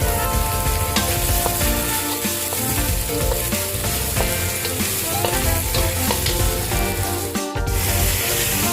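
Food frying in hot oil in a pan, sizzling steadily.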